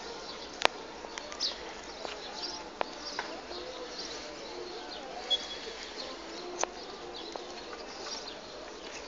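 Birds chirping and cooing against a steady background hum, with three sharp clicks, the loudest one about a second in.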